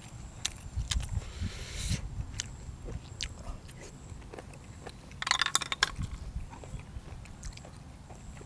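A person chewing and biting food close to the microphone, with wet mouth clicks and a short burst of crisp crunching about five seconds in.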